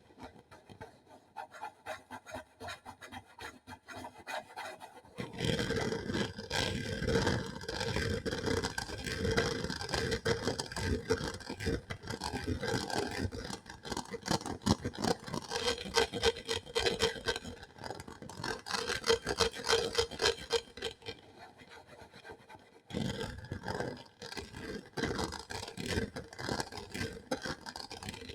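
Close-up rapid scratching and scraping strokes on a hard surface, an ASMR trigger sound: quieter for the first few seconds, then fuller and busier, easing off briefly about three-quarters of the way through before picking up again.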